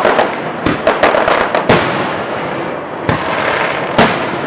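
Fireworks exploding: a quick run of bangs and crackles in the first two seconds, then single heavy booms about three and four seconds in.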